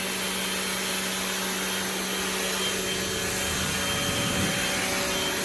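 Rock&Rocker HWY12 high-pressure washer running: the motor and pump hum steadily with a faint constant whine, under the hiss of the water jet spraying.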